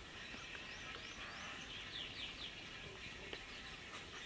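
Birds chirping faintly: a few quick rising chirps, then a short run of falling notes about two seconds in, over a steady outdoor hiss.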